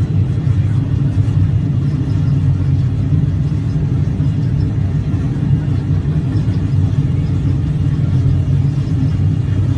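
Aircraft engine and propeller running with a steady, deep drone that holds even throughout.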